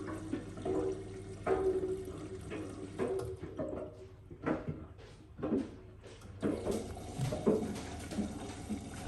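Miele W1 washing machine on a hot drum-cleaning cycle: water sloshing and splashing in the tumbling drum in irregular surges, over a steady low motor hum.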